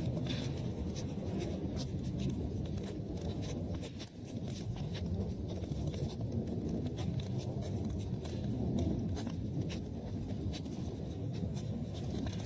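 Wood fire burning in a fireplace: a steady low rush of flame with frequent small crackles and sharp pops scattered irregularly throughout.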